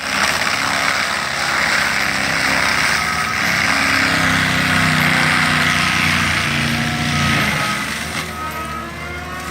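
Cat 299D2 XHP compact track loader working a forestry mulcher head into a tree: the engine runs under load beneath a loud, dense grinding and shredding noise. About eight seconds in the load eases and a rising whine comes through.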